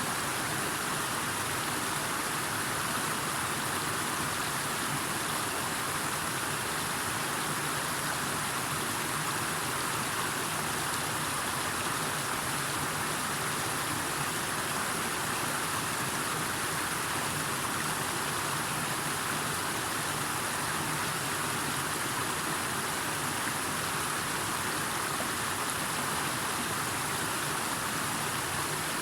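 Steady, unbroken water noise, the even hiss of rain or running water, with no single events standing out.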